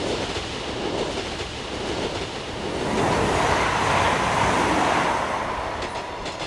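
Recorded sound effect of a train passing by: a steady rumble of wheels on rails that grows to its loudest about halfway through, then fades.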